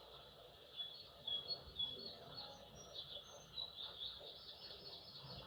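Faint birdsong: small birds giving short, high chirps scattered through the pause.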